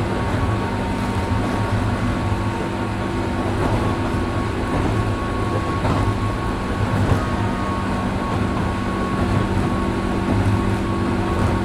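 Onboard running sound of a JR 103 series 1500-subseries electric train travelling at steady speed: a steady whine holding one pitch over the rumble of wheels on the track, with a few faint clicks.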